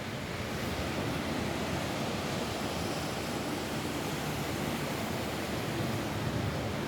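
Steady rain falling on a roof, an even wash of noise without single drops standing out.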